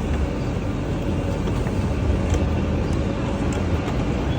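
Steady low rumble with an even hiss of background noise, with no distinct events.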